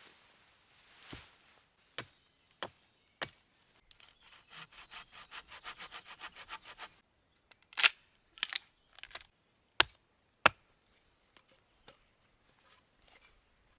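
Knife chopping on a wooden cutting board: a few separate knocks, then a quick even run of about five chops a second, then several louder single knocks.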